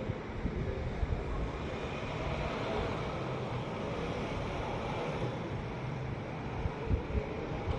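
Wind buffeting the microphone over a steady outdoor rumble, with stronger low gusts near the end.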